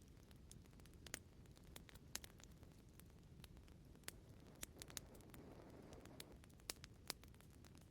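Wood fire crackling faintly: irregular sharp pops and snaps over a low steady rumble, with a soft rush of flame swelling briefly a little past the middle and two louder pops near the end.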